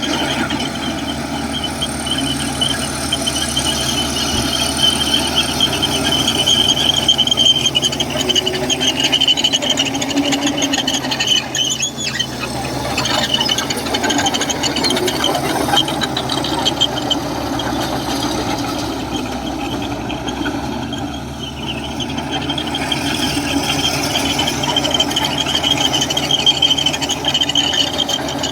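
Komatsu crawler bulldozer working, its diesel engine running steadily under a continuous high squeal from the steel tracks.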